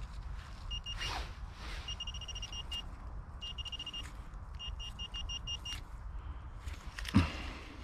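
Minelab Vanquish 440 metal detector beeping on a target: several runs of short, fast, high-pitched beeps at one pitch as the coil is swept back and forth, a high tone that the detector gives for a valuable-sounding target. Steady low rumble under it and a single thump near the end.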